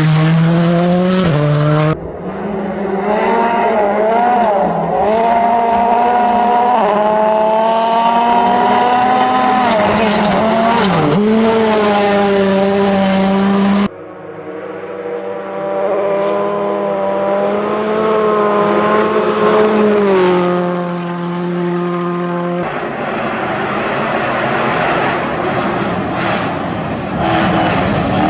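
Rally car engines running hard past the spectator, the engine note rising and falling with throttle and gear changes, in several separate passes cut together: the sound switches abruptly about 2 seconds in, about 14 seconds in and near 23 seconds in.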